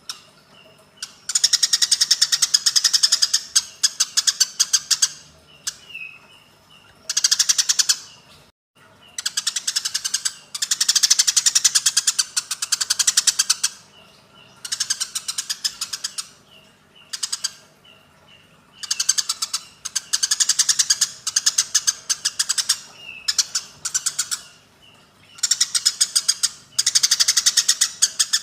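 Eurasian tree sparrows giving the rapid, harsh chattering calls of sparrows fighting, in repeated bursts of one to a few seconds each, with single chirps in the short gaps between.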